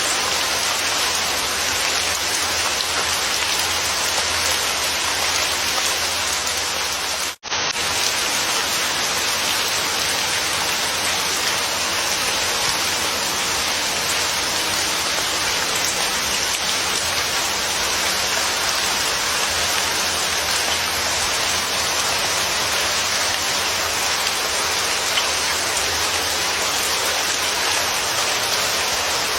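Steady, dense rain falling and pattering on surfaces. The sound cuts out for a split second about seven seconds in, then resumes unchanged.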